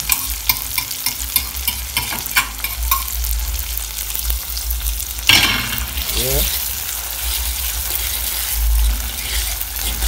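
Saltfish, onion, tomato and sweet pepper sizzling as they fry in oil in a pan while being stirred. There is a run of sharp clicks of the utensil against the pan in the first few seconds, and a sudden louder moment about five seconds in.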